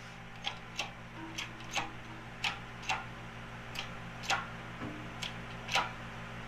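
Sharp metal clicks, about ten of them and loosely in pairs, from a manual tube bender as the tube is worked a little further into the bending die. A steady low hum runs underneath.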